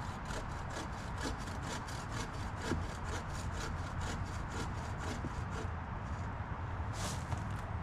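Hand saw cutting wood in quick, even strokes, about four a second. The strokes stop about five and a half seconds in, and one more rasp follows near the end.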